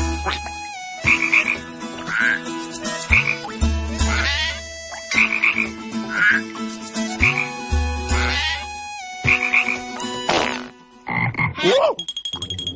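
Cartoon frog croaks, done as a vocal imitation, repeating in a rhythmic cycle about every three and a half seconds, each with a deep low thud under it. After about ten seconds a different gliding cartoon vocal sound takes over.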